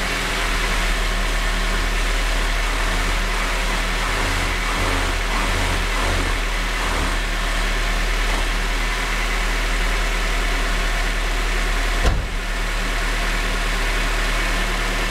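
Freshly rebuilt Honda D16Z6 1.6-litre four-cylinder engine idling steadily on its first start-up, running smoothly. A single sharp knock sounds about twelve seconds in.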